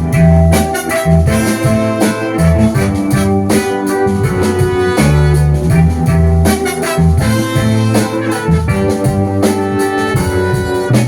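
Live band playing an instrumental passage of a soul song, with drums, a strong bass line and guitar.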